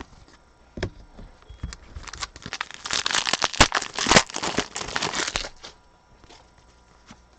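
Crinkling and rustling of a trading-card pack's foil wrapper as it is handled and torn open, starting about two seconds in and lasting about three and a half seconds, with a few light clicks before it.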